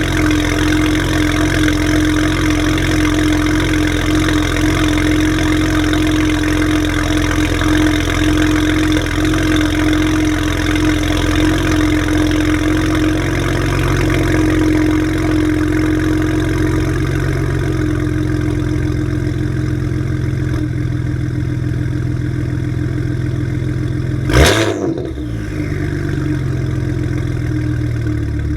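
BMW 335is twin-turbo N54 inline-six, with catless downpipes and exhaust valves held open, idling steadily after a cold start. About 24 seconds in, one quick rev rises and falls away before it settles back to idle.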